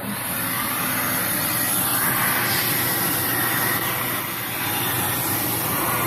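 Dyson Cinetic Big Ball Animal + Allergy canister vacuum cleaner switched on and running steadily, its motor and airflow making a strong high-pitched hiss.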